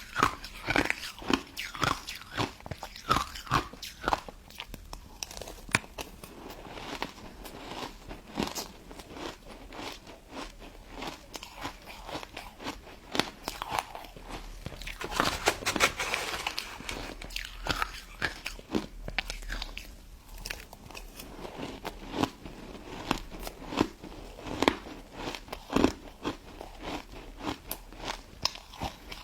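Close-up crunching and chewing of a pink crystal snow ice dessert: irregular sharp crunches, often several in quick succession, throughout.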